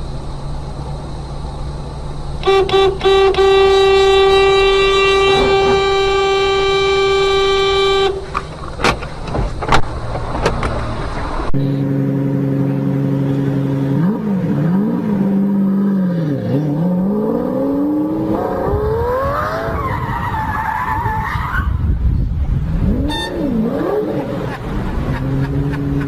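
Car traffic sounds: a car horn held steadily for about five seconds, then a few sharp knocks. After an abrupt change, an engine revs up and down repeatedly, with a brief high squeal in the middle.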